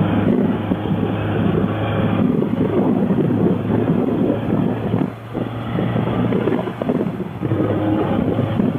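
Motorcycle engine running at riding speed under heavy wind noise on the helmet microphone, with a brief drop in level a little past halfway.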